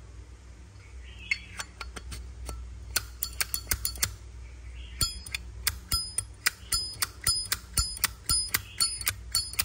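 Brass Zippo lighter handled repeatedly: a quick run of sharp metallic clicks with a bright ring, about three a second, starting about a second and a half in, with a short pause near the middle.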